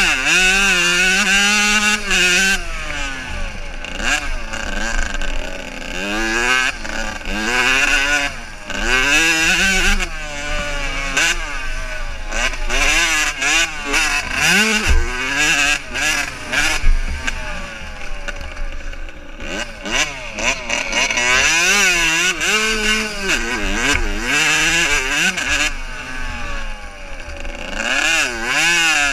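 Motocross motorcycles racing, their engines revving up and dropping back again and again as they accelerate and shift gears, more than one engine heard at once.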